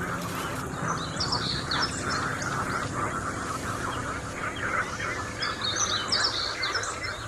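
Two short bursts of high, chirping bird song, about a second in and again around six seconds in, over a steady crackling background noise.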